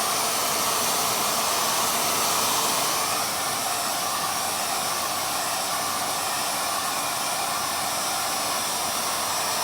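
Exterra P-UP terahertz hair dryer running on a steady setting, a continuous rush of air with a faint whine, its airflow shifting slightly about three seconds in.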